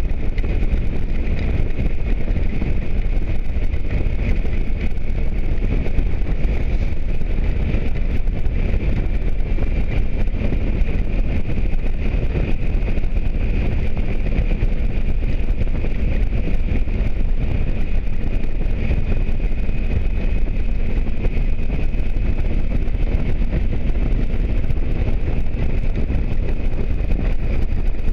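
Motorcycle riding at a steady speed: constant wind rush and road noise on the microphone over the engine's drone, with no change in pace.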